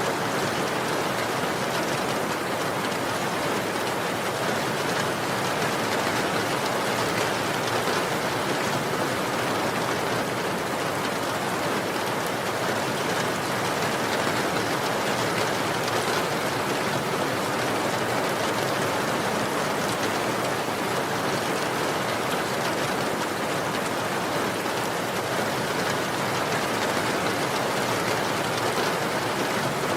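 Steady rain falling, an even dense hiss of drops with no single drops standing out and no change in strength.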